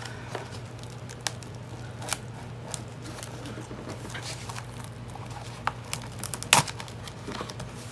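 Pliers working big staples out of an old book's spine, with paper crinkling and scattered small clicks. A sharper click comes about six and a half seconds in.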